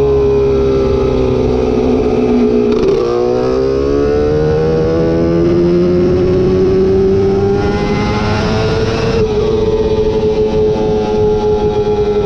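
A racing engine running hard under load, its pitch sliding down and climbing again with the throttle, with a sharp change in the note about three seconds in and again near nine seconds.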